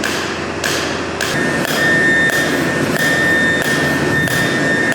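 Hand hammer striking in a steady rhythm, about two blows a second. A steady high whine runs under the blows from about a second in.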